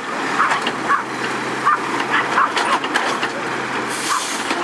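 Autocar Pendpac garbage truck's diesel engine idling steadily, with a string of short high chirps over it and a brief hiss near the end.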